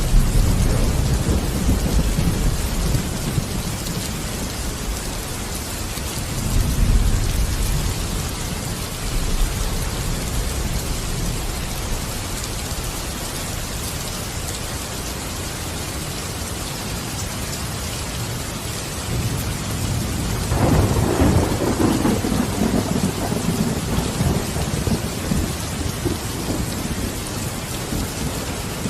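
Steady rain with rolls of thunder: a low rumble at the start, a shorter one about seven seconds in, and a longer roll from about twenty seconds in.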